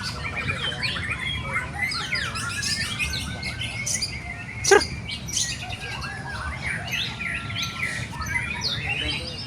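Several songbirds, white-rumped shamas among them, sing at once in a dense tangle of rapid whistles, trills and chirps. About halfway through there is one loud, sharp note.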